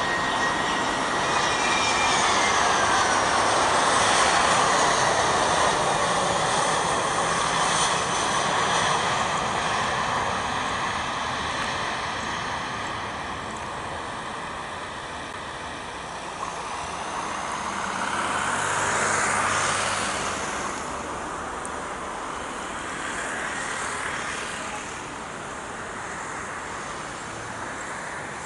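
Airliner engines at takeoff power, loud at first with a whine that falls in pitch over the first few seconds, then fading slowly as the aircraft climbs away; a second, shorter swell comes about two-thirds of the way through.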